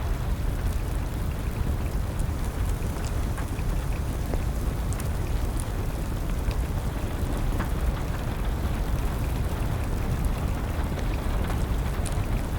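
Steady rain with a low rumble, and a wood fire crackling with scattered sharp pops.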